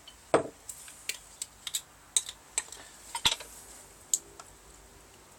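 Metal spoon clinking and scraping against a container as sauce is scooped out and spread onto chicken: a dozen or so irregular sharp taps, the loudest about a third of a second in and again about three seconds in.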